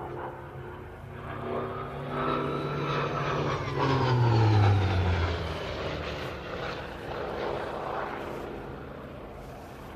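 Hawker Sea Fury's Bristol Centaurus radial engine in a fast flypast: it grows louder, peaks about four to five seconds in as its pitch drops while it passes, then fades away.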